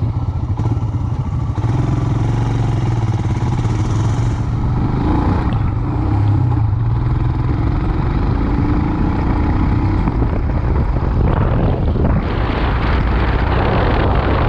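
Motorcycle engine running steadily while riding, with a rushing noise that grows louder near the end.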